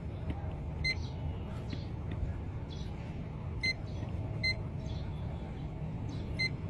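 Digital insulation resistance tester (megohmmeter) giving short, high beeps, four of them at uneven spacing, while it runs an insulation test on a wire. A steady low hum sits underneath.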